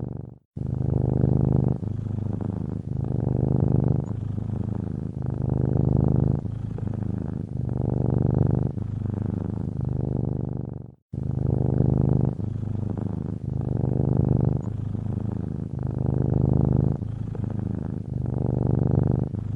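Domestic cat purring steadily in its sleep, the deep rumble swelling and easing with each breath about every two seconds. The purr breaks off briefly twice, near the start and about halfway through.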